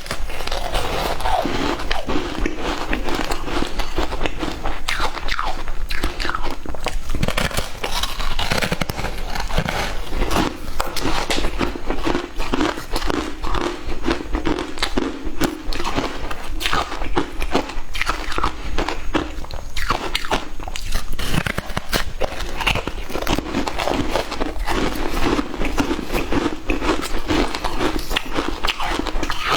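Someone biting and chewing frozen matcha ice, with many crisp crunches in quick, uneven succession throughout.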